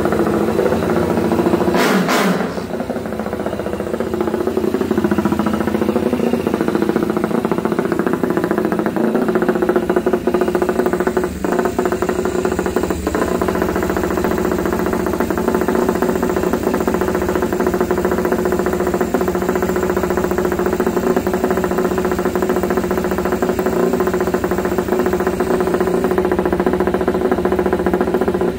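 Motorcycle engine idling steadily, with a brief loud burst about two seconds in.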